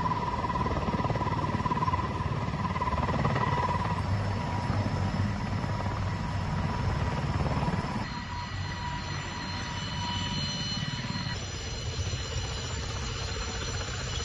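Mi-26 heavy-lift helicopter running: a dense, steady rotor and engine noise with fast low pulsing and a steady high turbine whine. About eight seconds in the sound changes abruptly, with different high whine tones after.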